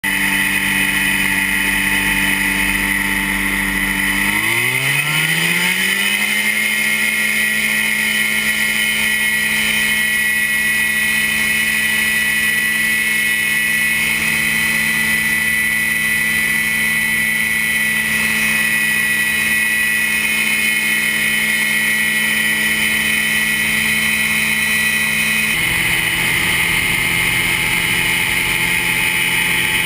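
Quicksilver MX Sport ultralight's engine running steadily at a low setting, then throttled up about four seconds in, its pitch climbing over a couple of seconds and holding at a high steady drone. Near the end its tone changes abruptly.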